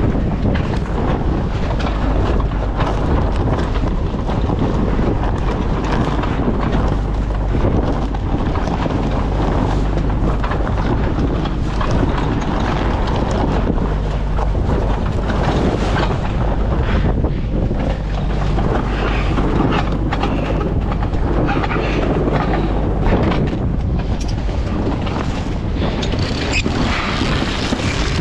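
Strong wind buffeting the microphone aboard a sailboat under sail, a steady, loud, low rumbling rush with no break, with more hiss near the end.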